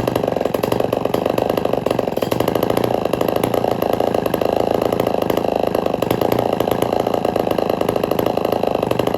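Homelite Super XL two-stroke chainsaw engine running steadily, with a fast, even firing rhythm.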